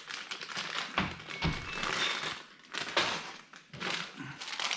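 Plastic LEGO parts bags crinkling and rustling as pieces are rummaged through, with a couple of soft knocks about a second in.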